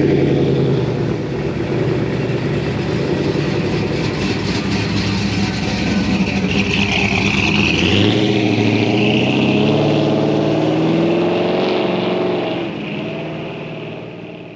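Vehicle engine running and accelerating, its note rising about eight seconds in, then fading away near the end.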